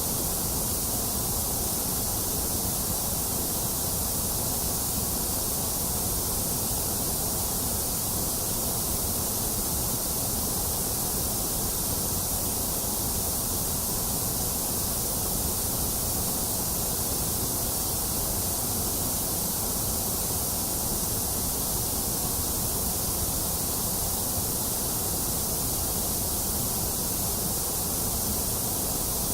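Steady white noise: an unchanging hiss with no rhythm or events, strongest in the high range, with a dip in the middle range.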